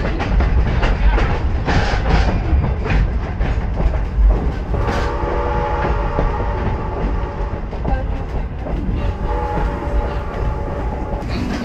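Passenger coach rolling along the rails with a steady low rumble and clicking wheels, heard through an open window. About halfway through, the locomotive's whistle sounds and is held for several seconds.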